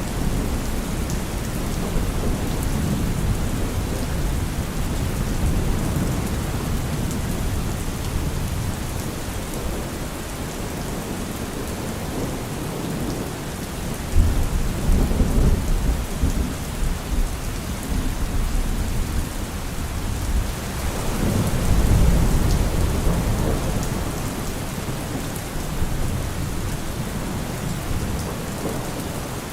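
Steady rain, with low rolls of thunder rumbling under it about 14 seconds in and again about 21 seconds in.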